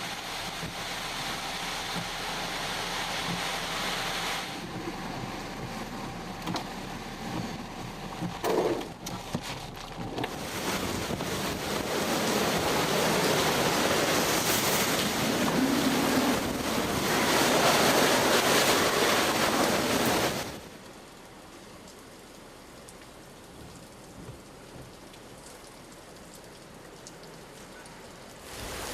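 Heavy hurricane rain and wind making a dense, steady hiss that builds up, then drops suddenly to a quieter rain hiss about two-thirds of the way through.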